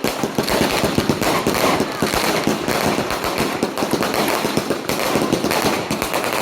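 Firecrackers going off in a rapid, continuous crackle of many small bangs a second.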